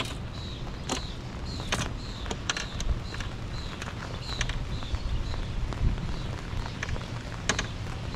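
Wind rumbling on the microphone with scattered sharp taps of raindrops landing close by, and short high chirps repeating.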